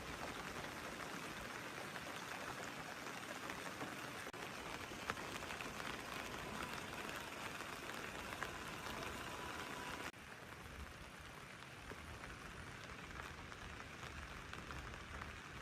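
Steady rain falling, an even hiss with a few faint scattered drips. About ten seconds in it drops suddenly to a quieter rain with more low rumble underneath.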